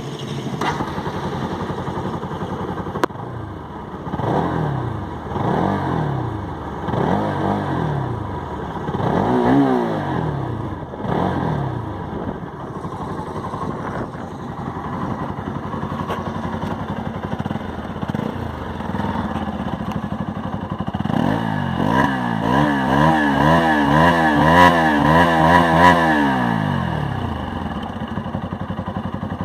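Bajaj Pulsar 200 NS single-cylinder engine and exhaust running. It gives a run of short throttle blips in the first third, settles back, then revs hard with the pitch wavering up and down for several seconds before dropping back to idle near the end.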